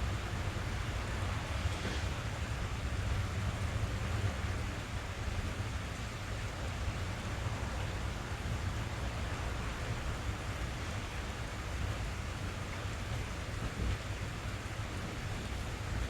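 Rain pattering steadily on a car's roof and windows, heard from inside the cabin, as a dense even hiss with a continuous low rumble underneath.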